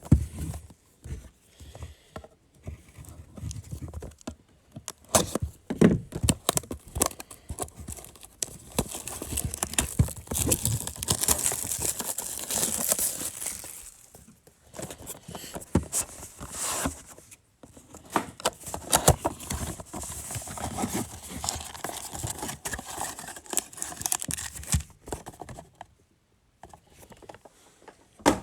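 A sealed mega box of football trading cards being opened by hand: plastic wrapping crinkling and tearing, with many small clicks and rustles of cardboard and packs being handled.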